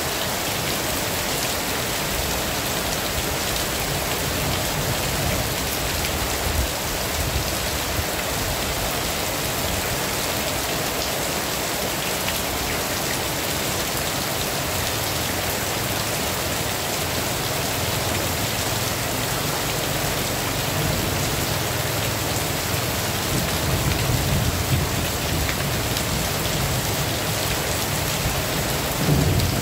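Heavy rain falling steadily in a constant hiss. A low rumble of thunder builds up in the last few seconds.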